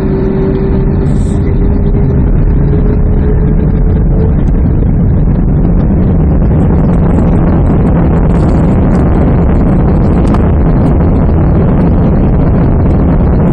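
Boeing 767-300's twin jet engines at takeoff thrust, heard from inside the cabin during the takeoff roll, with a heavy, steady rumble of the wheels on the runway. The noise builds over the first couple of seconds. A single engine tone rises slightly in pitch and fades out a few seconds in.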